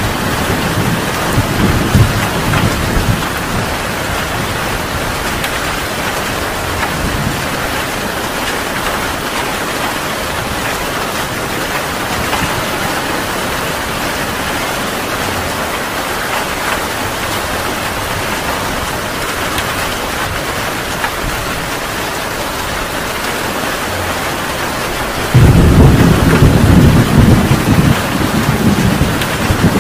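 Heavy rain falling steadily, with deep rolling thunder. The rumble fades away in the first few seconds, then breaks in suddenly and loudly near the end and keeps rolling.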